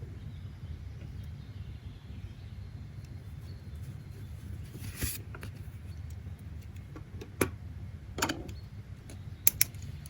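Steady low rumble of background noise, with a brief rustle about five seconds in and a few scattered sharp clicks and a thump in the second half, two clicks close together near the end.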